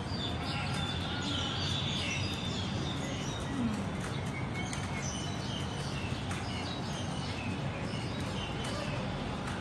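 Small birds chirping in short repeated calls over a steady outdoor background noise.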